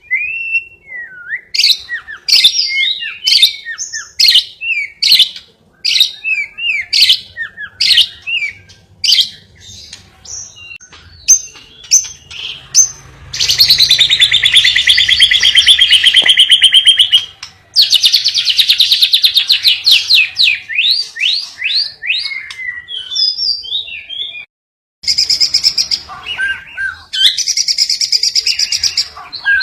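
Lovebird singing a canary-style song learned from a master recording: runs of quick rising and falling chirps, then long fast trills through the middle. The song breaks off for a moment near the end, then resumes.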